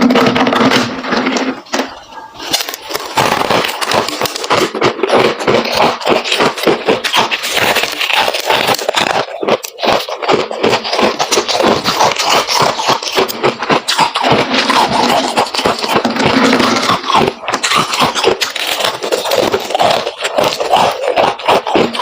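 Close-up chewing and crunching of freezer frost: dense, rapid, crisp crunches that go on without a break.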